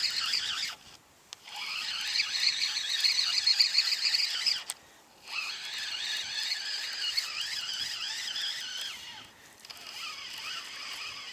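Fishing reel being wound in while playing a hooked fish: a squealing, whirring winding sound in three long stretches, each cut off abruptly by a short pause in the cranking.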